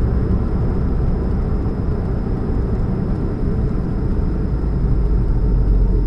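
2013 Chevrolet Spark running with a steady low hum, which the owner attributes to an exhaust leak at the catalytic converter.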